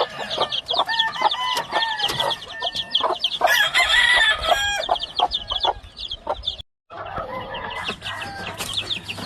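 Gamefowl chickens calling: many fast, high peeps from young birds, overlapped by longer, lower calls from older birds. The sound drops out for a moment about two-thirds of the way through.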